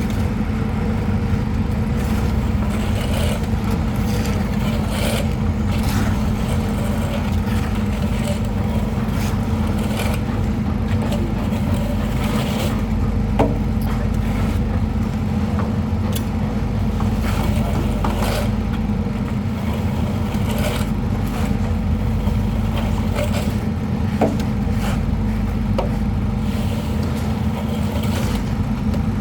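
A steady engine drone throughout, with scattered scrapes and clicks of plastering work: trowels working cement plaster on a wall.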